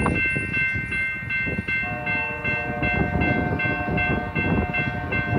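Freight train rumbling through the yard, with a bell ringing rapidly and steadily over it. About two seconds in, a lower steady tone joins and holds. Wind buffets the microphone.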